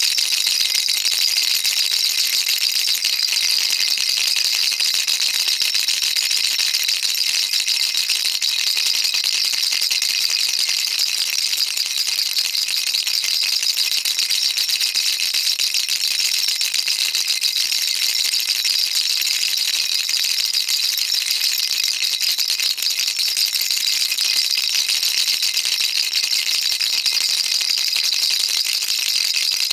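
Baby rattle shaken without pause, its small beads clattering in a dense, even hiss-like rattle.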